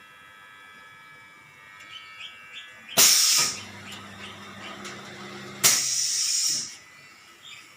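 Semi-automatic four-nozzle filling machine cycling: a sudden loud hiss of released air about three seconds in, a low steady hum while it runs, then a second, longer hiss near six seconds. Faint light chirps and ticks come before the first hiss.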